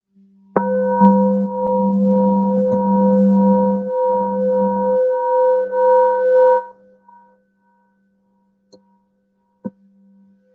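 Singing bowl struck and then sounded with the mallet, several steady ringing tones over a rough friction-like noise, above a lower steady tone that runs throughout. The noise stops about six and a half seconds in and the bowl rings on faintly, with two small clicks near the end.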